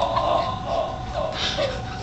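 A person's voice making short wordless cries and chuckles, over a faint steady hum.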